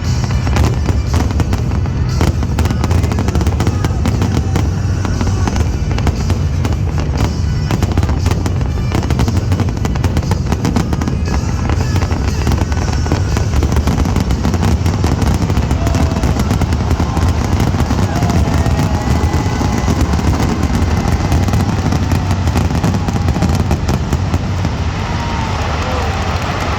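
Fireworks display going off in rapid, dense volleys of bangs and crackles, heaviest in the first half, over the show's accompanying music and a low rumble.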